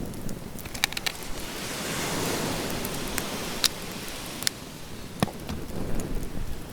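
Sea waves washing onto the beach, a steady rush that swells about two seconds in, with a few sharp clicks scattered through it.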